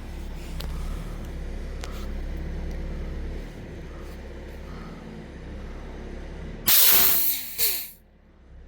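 High-pressure air hissing out in a short, loud blast in two parts, its tone falling as the pressure drops, from a PCP air-rifle fill line or air bottle valve being bled. A low rumble runs through the first few seconds before it.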